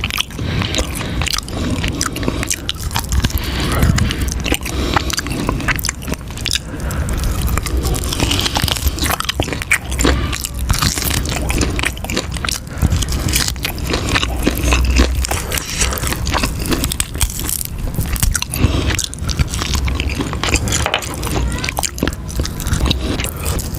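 Close-miked eating of cheese ribs: biting and chewing with a dense run of irregular crunches and crackles, and a few dull low thumps along the way.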